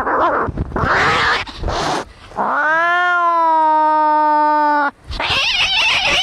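Angry cats fighting: harsh hissing, then a single long yowl that rises and then holds steady for about two and a half seconds, cut off sharply by more hissing.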